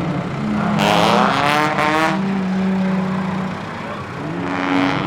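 Car engines running and revving, with a louder rev that rises and falls with a rushing noise about a second in, and another rise near the end.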